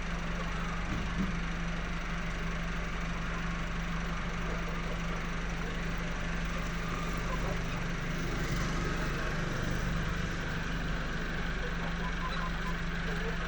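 A steady, unchanging mechanical hum from running machinery.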